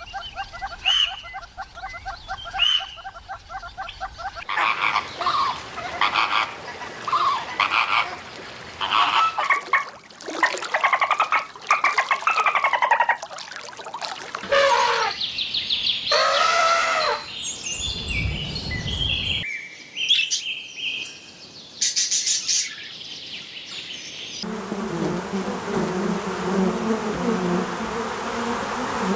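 A string of short animal-call clips changing every few seconds: a fast pulsed trill at first, then many bird chirps and whistles, with a low buzzing chorus near the end.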